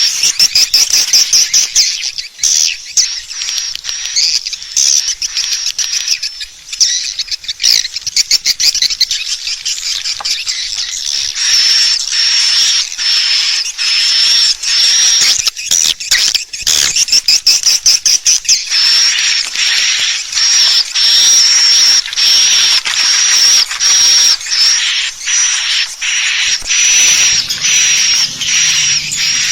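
Swiftlet lure call: dense, rapid, high twittering chirps of swiftlets, one after another without a break. This is the calling sound swiftlet farmers play to attract and hold swiftlets in a nest house.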